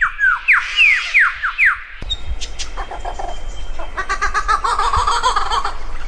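Cage birds calling. First comes a quick series of downward-sweeping whistles, about three a second. After an abrupt change about two seconds in, a different bird gives a rapid, pulsed chattering call over background hiss.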